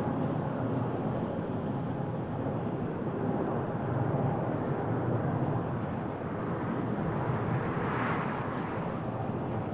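Airbus A320neo airliner landing, its jet engines giving a steady rumble, with a brief brighter rush of hiss about eight seconds in.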